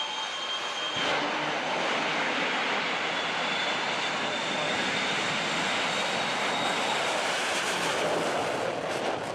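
Jet engine of a jet-powered drag-racing vehicle running at high power: a dense, steady roar with a high whine. The roar fills out about a second in.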